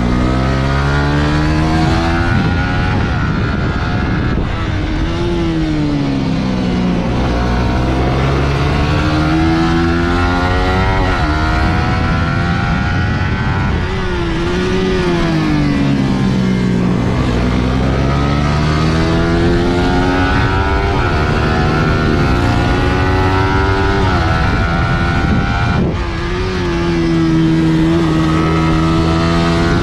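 Suzuki GSX-R150's single-cylinder four-stroke engine being ridden hard around a track. Its pitch climbs through the gears with quick drops at each upshift, then falls away as it slows for corners, over and over.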